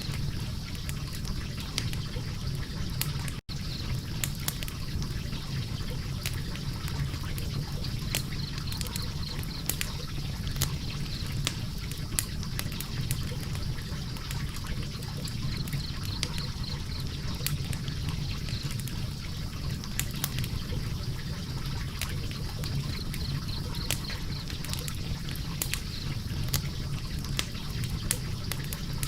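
Wood fire burning in a fireplace: logs crackling and popping in irregular sharp clicks over a steady low rumble of flame. A split-second dropout about three and a half seconds in.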